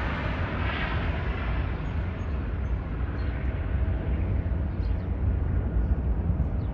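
Jet airliner engine noise after takeoff: a deep, steady rumble whose higher hiss slowly fades as the plane moves away.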